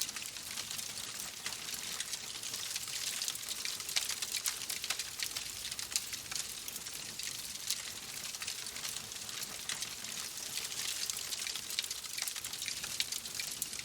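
Fireplace fire crackling: a steady soft hiss dotted with many small, sharp pops.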